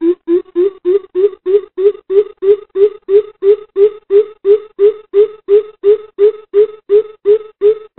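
Coucal calling a long, even series of deep hollow hoots, about three a second. The pitch rises slightly at first, then holds steady. This is the bìm bịp call played as a lure to bring coucals in.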